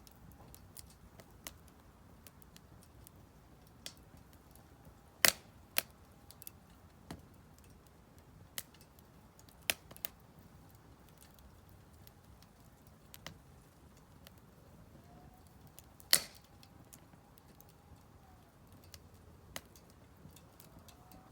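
Split firewood burning in a Solo Stove Campfire fire pit, crackling with sparse sharp pops, the loudest about five seconds and sixteen seconds in.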